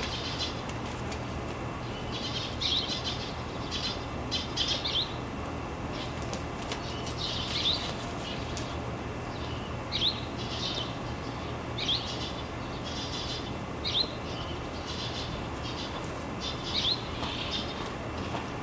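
Small birds chirping: short high calls, some sliding down in pitch, come every second or two over a steady low hum.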